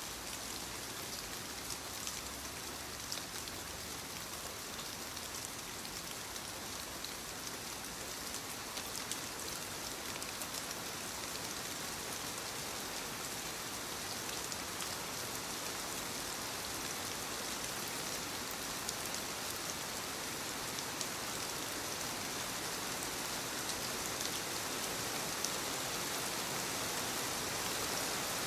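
Light rain falling steadily on leaves: a soft, even hiss with many small drop ticks, growing slightly louder.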